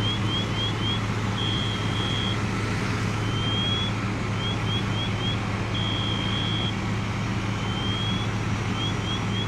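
A high electronic alarm repeating the same cycle about every four seconds: a slow rising sweep, four quick rising chirps, then a held steady tone. Under it runs a steady low engine drone.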